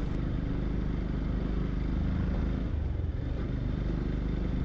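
Yamaha FZ-X motorcycle's single-cylinder engine running steadily while riding, a constant low hum under an even rush of noise.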